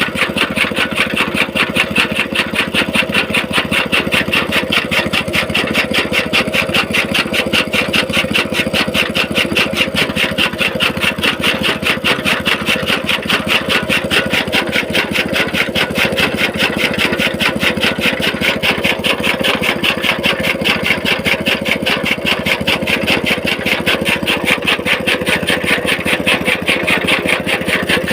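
Small petrol engine driving a toka fodder-chopping machine, running steadily with a rapid, even beat.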